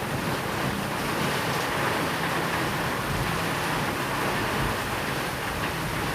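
Steady rain falling, an even hiss with no single drops or thunderclaps standing out.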